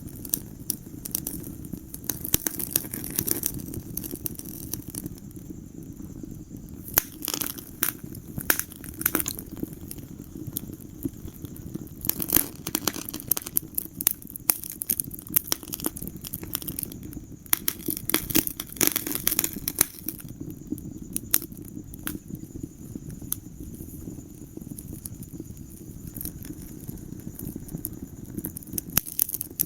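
Wood fire crackling in a fireplace: irregular sharp pops and snaps over a steady low rumble, with denser runs of pops several times.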